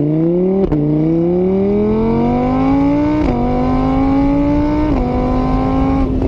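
Car engine accelerating through the gears: its pitch climbs, then drops at each of three upshifts, about a second in, near the middle and about five seconds in, with the later gears rising more slowly.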